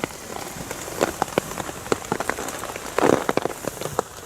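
Steady rain on a bivvy bag, with many irregular heavy drops striking the fabric; a cluster of louder strikes about three seconds in.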